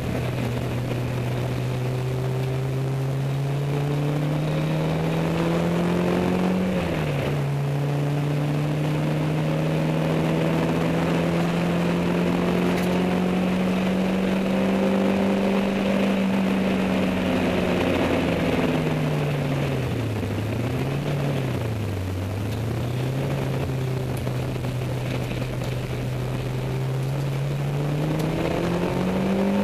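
Peugeot 205 Mi16's four-cylinder 16-valve petrol engine running under load while driving. The engine note climbs slowly, drops sharply about seven seconds in at a gear change, then climbs again. Around twenty seconds in the revs dip twice before rising once more.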